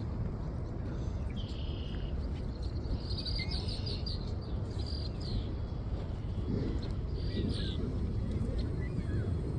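Songbirds chirping in several short bursts of high twittering. A steady low rumble runs underneath.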